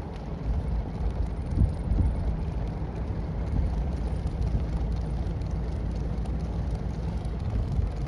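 A vehicle driving on a snow-covered mountain road: steady low engine and tyre rumble, with a few brief bumps about two seconds in.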